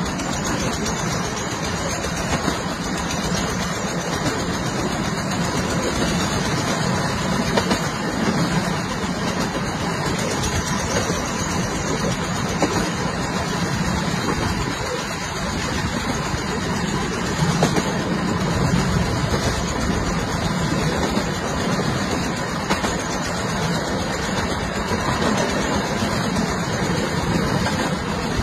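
A train running along the track, giving a steady, even rumble and rush of noise.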